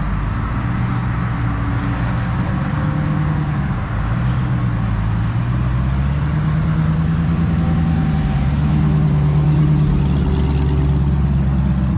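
A car engine idling with a steady, deep drone, growing a little louder in the second half.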